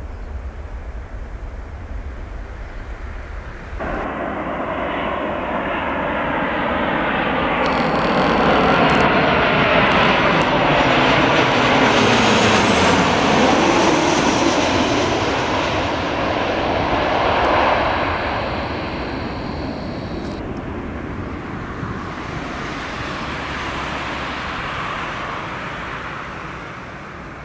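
Ryanair Boeing 737-800 jet airliner's CFM56-7B turbofans passing close by on landing approach: the jet noise swells to a loud peak and then fades, with a falling sweep in pitch as it goes past. Before this, a more distant jet rumble cuts off abruptly about four seconds in.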